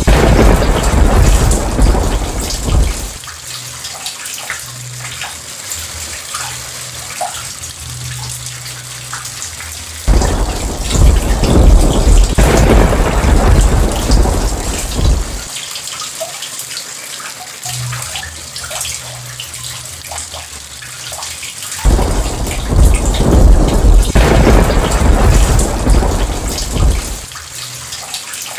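Heavy rain falling steadily, with three long rolls of thunder of several seconds each. The first is already rolling at the start and dies away about three seconds in; the next starts about ten seconds in, and the last about twenty-two seconds in.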